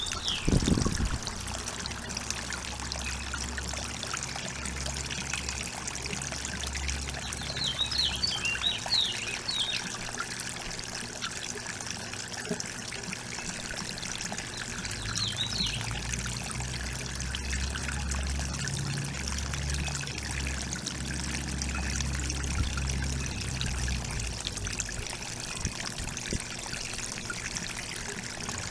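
Steady trickling water, with a few short, high bird chirps about eight seconds in and again around fifteen seconds; a low rumble comes and goes underneath.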